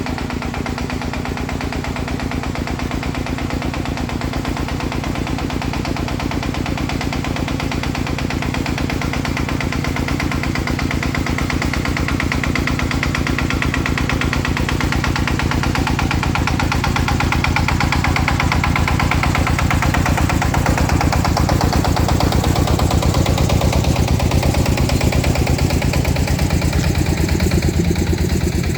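A farm truck's engine running steadily with an even, rapid pulsing beat, getting slightly louder about two-thirds of the way through.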